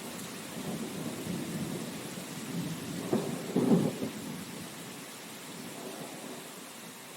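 Steady rain hiss with low rolling thunder; the thunder swells to two louder rumbles about halfway through, then dies away, leaving the rain.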